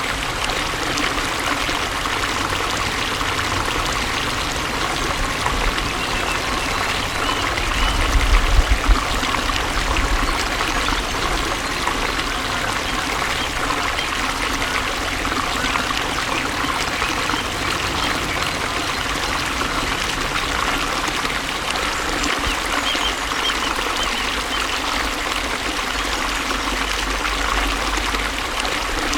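Flowing water trickling steadily, with a brief low rumble about eight seconds in.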